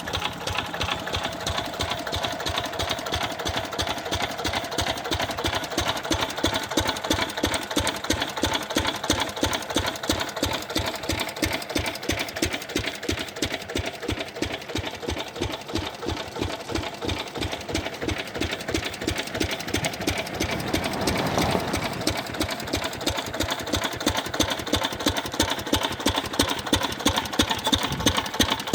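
A 10 hp diesel engine running steadily, with a rapid, even beat of firing strokes.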